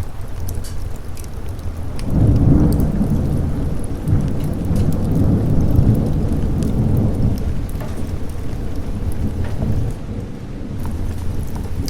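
Thunder rolling over steady rain: a long, deep rumble swells about two seconds in, holds for several seconds and slowly dies away, with the rain running throughout.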